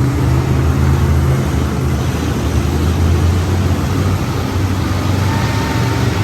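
Monster truck engine running loudly, a steady deep drone whose pitch shifts slightly.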